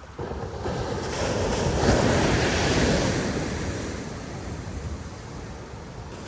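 Ocean surf: a wave breaks and washes up the beach. The rush swells early on, is loudest a couple of seconds in, then fades away.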